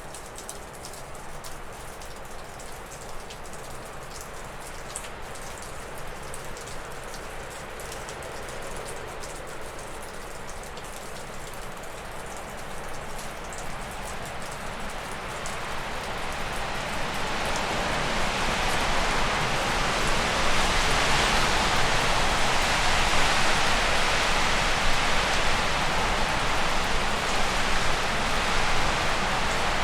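Wind rushing through spruce and birch trees, with water dripping off a roof in fine ticks. About halfway through, a strong gust builds over a few seconds and stays loud, covering the drips.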